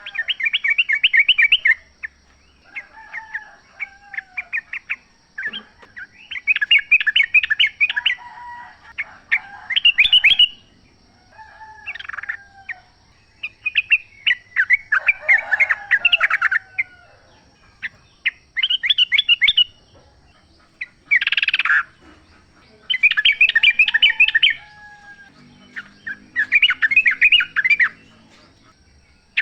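Yellow-vented bulbuls (trucukan) singing in the wild: repeated bursts of rapid, bubbly chattering notes, each phrase a second or two long with short pauses between. A steady high-pitched whine runs underneath.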